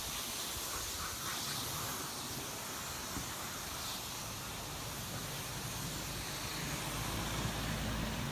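Car wash equipment running with a steady hissing rush over a low rumble, the rumble growing stronger near the end.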